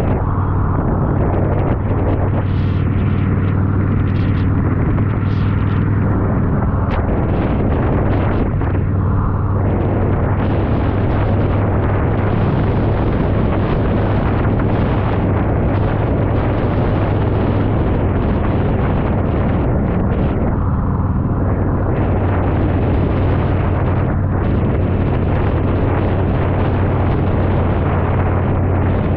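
Yamaha V-Star 1100's air-cooled V-twin engine running at a steady pace while riding, its low drone holding a constant pitch, under a steady rush of wind and road noise.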